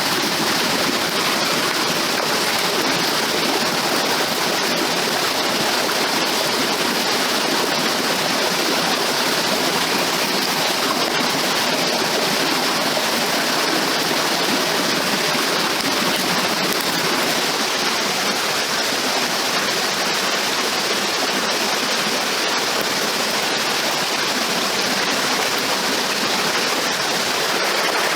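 Steady rushing of running water, an even unbroken sound.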